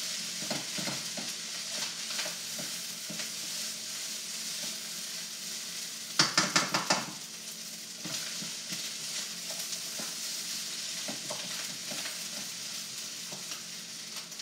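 Fried rice sizzling steadily in a hot wok as it is stirred and tossed with small scraping ticks. About halfway through comes a quick run of about six loud, sharp knocks of the utensil against the wok.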